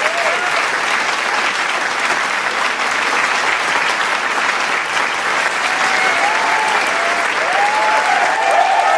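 Large crowd applauding steadily, with voices cheering and whooping over the clapping, the cheers thickening in the last few seconds.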